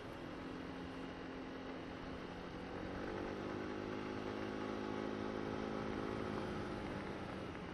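Honda SH150i scooter's single-cylinder engine running while riding, a steady hum that grows louder about three seconds in and eases back near the end.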